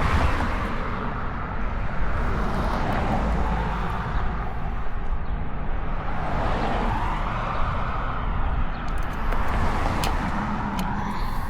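Street traffic: cars passing one after another, their sound swelling and fading several times over a steady low rumble, with a few light clicks near the end.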